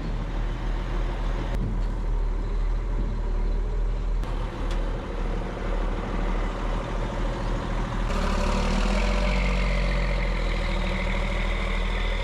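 Old dump truck running while its vibrating bed shakes out a load of topsoil. About eight seconds in, the sound steps up louder and a whine slowly falls in pitch.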